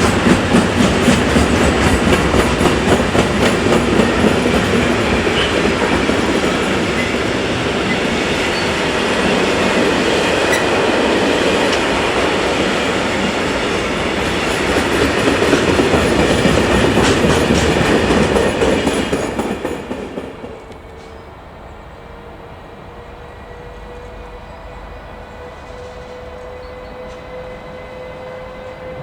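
A train passing close by, wheels clattering rapidly over the rail joints. The clatter falls away suddenly about two-thirds through, leaving a fainter steady hum with a slowly rising tone.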